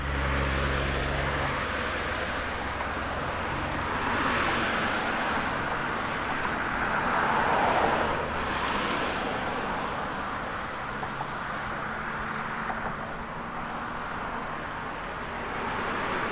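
Road traffic passing: a steady rush of tyre and engine noise that swells twice as vehicles go by.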